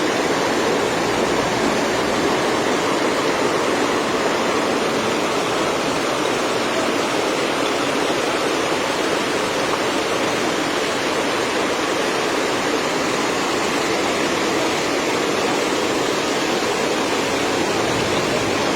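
Flash floodwater rushing in a torrent, a loud, steady, unbroken noise of flowing water.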